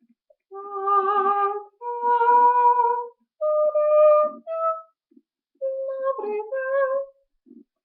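A female voice sings a wordless melody, hummed or vocalised, in long held notes. The notes come in short phrases, with brief pauses between them.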